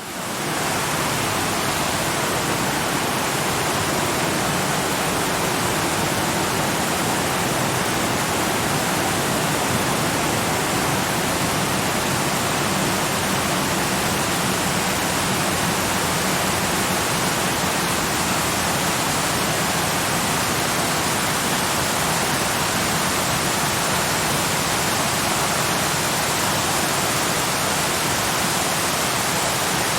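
Waterfall rushing in a steady, even roar that fades in within the first second.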